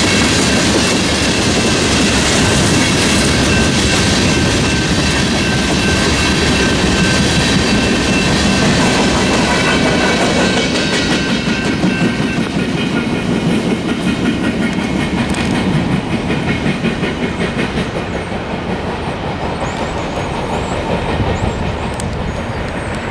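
Freight train of tank cars rolling over a road crossing, wheels clacking over the rail joints, with the crossing's General Signals Type 2 electronic bell ringing. About halfway through, the train noise fades and the bell rings on in a steady pulse with its echo.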